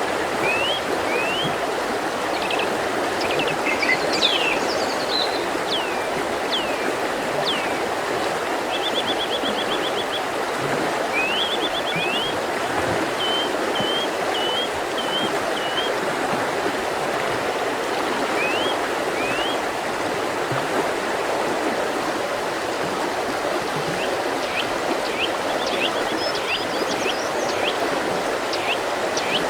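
Mountain river running steadily, a continuous rush of water, with small birds singing over it: short rising notes, a quick trill about nine seconds in, a run of repeated chirps a few seconds later, and more calls near the end.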